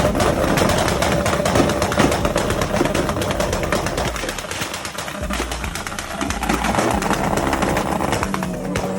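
Car engine held on a two-step launch limiter, a steady high-rpm note chopped by rapid crackling exhaust pops, easing briefly about five seconds in before picking up again.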